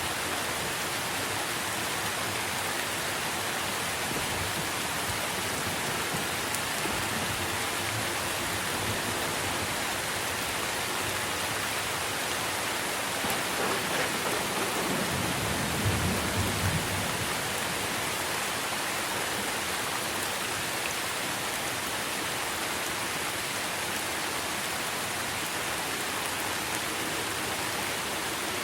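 Steady rain falling on tree leaves, an even hiss. About halfway through, a short low rumble of thunder rises under the rain.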